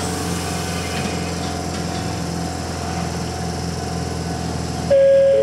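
Konan Railway Owani Line electric train standing in the station with its doors open, its equipment humming steadily. Near the end a loud two-note chime starts, alternating a higher and a lower note: the warning that the doors are about to close.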